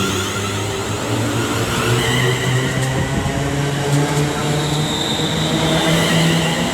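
Class 350 Desiro electric multiple unit pulling away from the platform, its traction motors giving a whine that climbs steadily in pitch as it accelerates.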